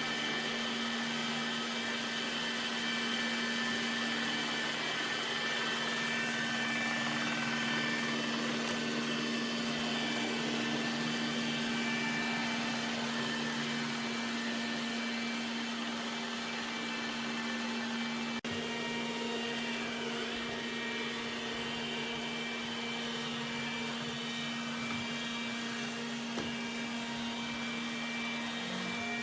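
iRobot Roomba Combo j7+ robot vacuum running: a steady motor hum and hiss, with a brief click about two-thirds of the way through, after which it runs a little quieter.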